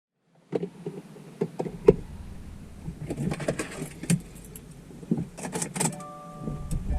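Keys jangling and scattered clicks and knocks of handling inside a 2016 Subaru WRX STI, then from about six seconds the car's electronic warning chime repeating in steady tones.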